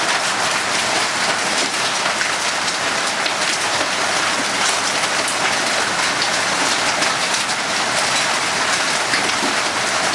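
Hailstones pelting down hard: a steady, dense clatter of countless small impacts over a loud rushing hiss.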